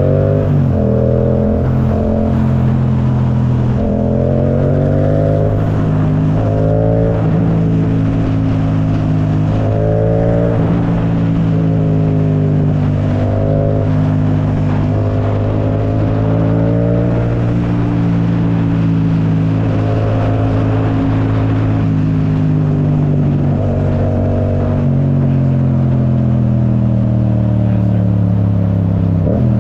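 Yamaha YZF-R7's parallel-twin engine with an Akrapovic full exhaust, running under way at a mostly steady pitch, with short rises in pitch every few seconds as the throttle is worked.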